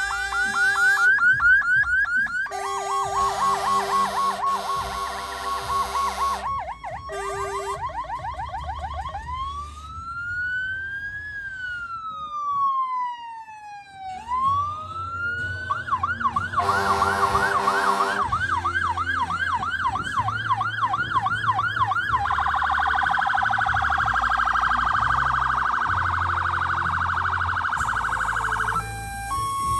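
Fire engine sirens sounding continuously and switching modes: fast yelping sweeps, sometimes overlapping another siren, then one slow wail that rises and falls about halfway through, then yelping again and a very fast warble. Near the end it changes to an alternating two-note hi-lo tone.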